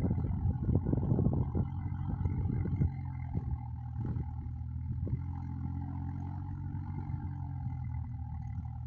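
Swaraj 744 tractor's three-cylinder diesel engine working hard under load, rough and uneven with many irregular pulses for the first three seconds, then settling into a steadier, slightly quieter run.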